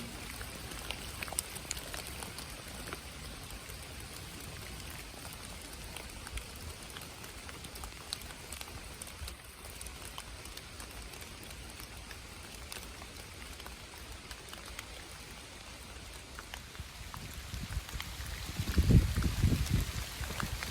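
Steady rain falling, with many individual drops ticking close by. A few low thumps come near the end.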